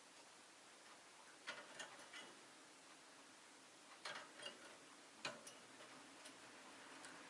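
A few faint, sharp clicks and ticks scattered over quiet room tone, around half a dozen in all, with a small cluster about a second and a half in and another about four seconds in.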